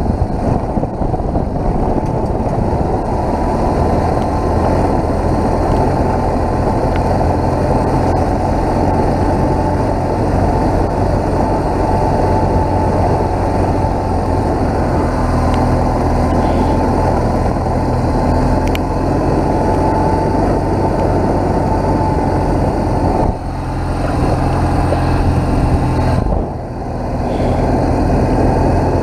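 BMW R1200GS boxer-twin motorcycle being ridden at a steady pace, its engine running under constant road and wind noise. The sound eases off briefly twice near the end.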